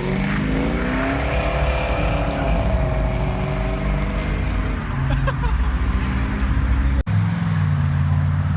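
Car engine revving up and held at high revs. About seven seconds in the sound cuts abruptly to another engine running at a lower, steady pitch.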